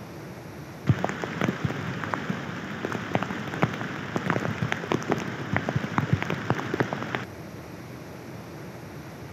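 Heavy rain on a hard surface: dense, irregular sharp taps of large drops over a steady patter. It starts abruptly about a second in and cuts off suddenly about seven seconds in, leaving a steady rushing noise.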